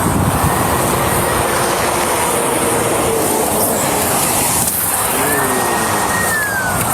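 Steady roar of highway traffic, with a faint whine that falls in pitch near the end.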